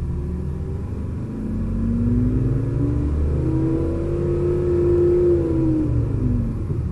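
Mazda CX-5's THOR active sound exhaust playing a synthetic engine note, heard from inside the cabin over low road and engine rumble. The note rises in pitch as the car accelerates, holds steady for a couple of seconds, then falls away near the end as the throttle comes off.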